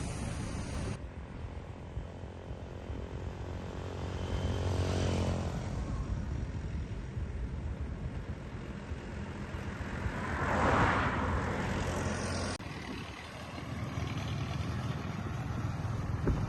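Diesel engine of heavy earthmoving equipment running under load, with a rise in engine note around five seconds in and a louder swell around eleven seconds in. The sound changes abruptly about a second in and again near twelve and a half seconds.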